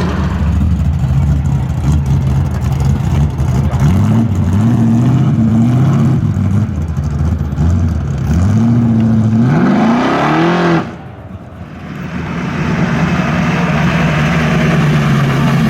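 Car engine revving hard several times, its pitch climbing in repeated sweeps, over a steady rush of noise. The sound drops away suddenly about eleven seconds in, then the noise builds back up.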